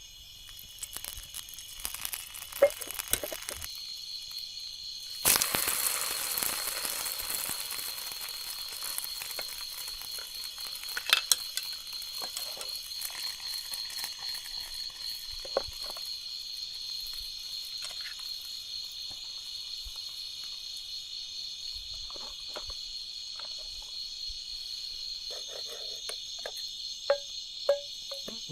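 Steady high-pitched chirring of night insects in the forest. About five seconds in, a loud hiss starts suddenly and fades away over several seconds, with scattered small clicks and knocks throughout.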